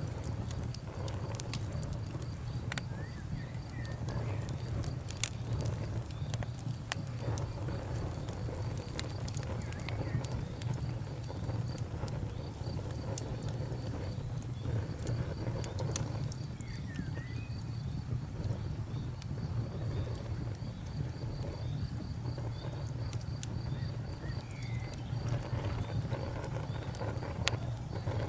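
Campfire burning: steady low rumble with frequent sharp crackles and occasional louder pops. A faint, evenly repeating high chirping runs underneath.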